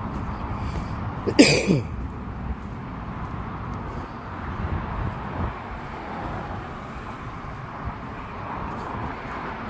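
Outdoor background rumble, with one brief loud sound falling in pitch about a second and a half in.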